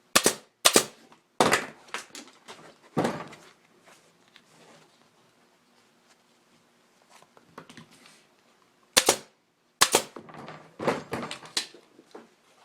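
Staple gun firing staples one after another through a motorcycle seat cover into the seat pan. There is a quick burst of sharp shots, a pause, then several more near the end.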